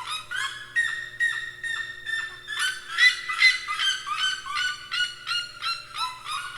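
Birds squawking in a rapid series of short, harsh calls, about three a second and overlapping one another.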